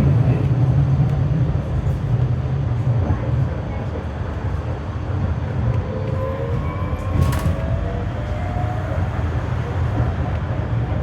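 Berlin GT-type low-floor tram heard from on board while running, a steady low rumble of wheels and running gear. From about six to nine seconds in, a faint rising electric whine joins it, with one sharp click a little past seven seconds.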